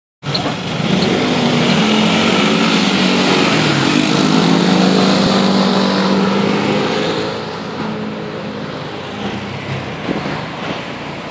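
Ford Mustang V6 engine's exhaust running loud and steady, its pitch climbing briefly about a second in. About seven seconds in it drops to a quieter, lower level.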